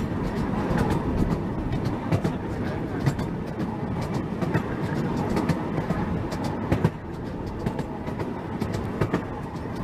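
Running noise of a small 10¼-inch-gauge light railway train in motion, heard from aboard an open carriage: a steady rolling rumble with irregular clicks from the wheels on the track.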